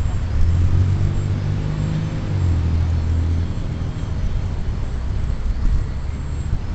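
Strong wind buffeting the microphone, a loud, continuous low rumble that swells for the first few seconds.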